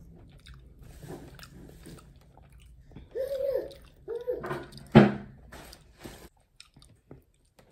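Close-up chewing and eating of a rice and chicken burrito bowl, with a fork working the food in the bowl. Two short high-pitched vocal sounds come a little past the middle, and a sharp knock about five seconds in is the loudest sound.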